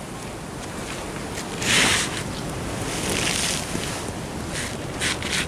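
Small ocean waves washing and splashing against a sea wall, with a loud hissing wash about two seconds in and a weaker one about a second later, and wind buffeting the microphone.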